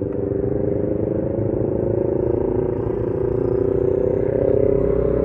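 Motorcycle engine running steadily at low revs, growing a little louder about four seconds in.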